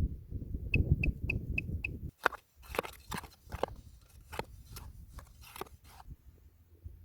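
A bird calls five short high chirps in quick, even succession, over low rumbling handling noise. About two seconds in comes a run of sharp crunching clicks and rustles.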